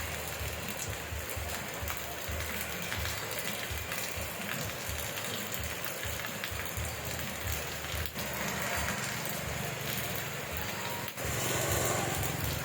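Steady rain falling, an even hiss, over an uneven low rumble; the sound dips very briefly twice, about 8 and 11 seconds in.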